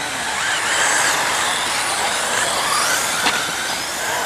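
Several radio-controlled stadium trucks racing, their motors whining up and down in pitch as they accelerate and brake, overlapping one another. A sharp click about three seconds in.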